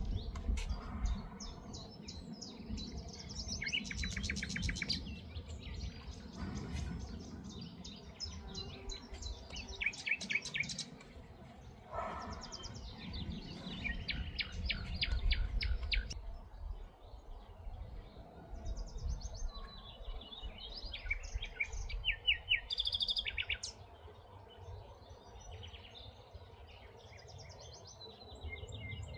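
Several wild birds chirping and singing in quick repeated series of high notes, over a low rumble that is stronger in the first half.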